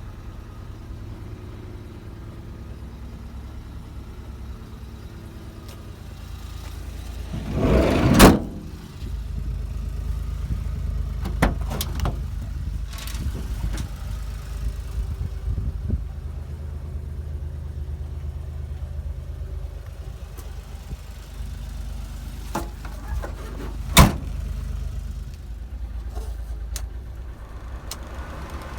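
Suzuki Every van's small engine idling steadily. About eight seconds in, a door slides along its track and slams shut, and another door slam comes about three-quarters of the way through, with lighter latch clicks between.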